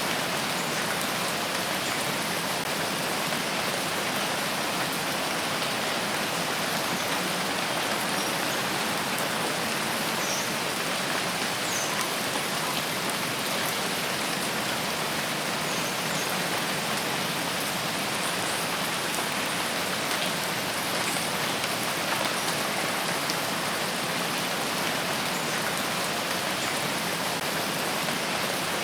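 Steady heavy rain falling, a continuous even hiss with no breaks.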